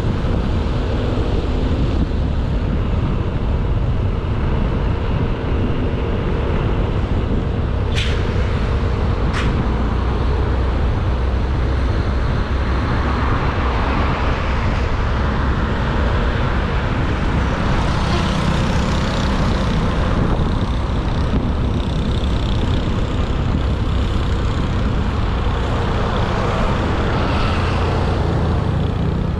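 Ride-along sound from a Honda Beat 110cc scooter under way: its small single-cylinder engine running steadily, mixed with wind buffeting on the camera microphone and tyre and road noise. Two short, sharp sounds come about 8 and 9.5 seconds in.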